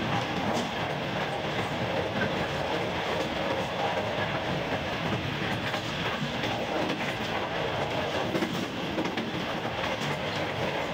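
Passenger train running at speed along the track: a steady rumble and rattle of the coaches, with light clatter of wheels over rail joints and points.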